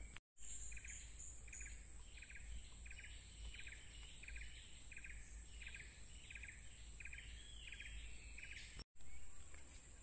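A bird calling over and over, about two short trilled calls a second, over a steady high-pitched insect drone.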